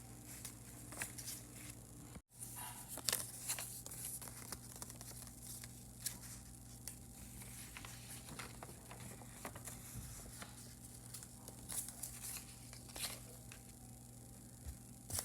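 Faint rustling and scattered short clicks over a steady low electrical hum, with a brief break in the sound about two seconds in.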